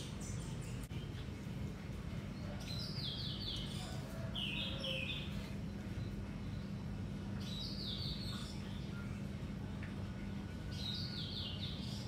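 A songbird singing short phrases of quick falling notes, several times with pauses between, over a steady low hum.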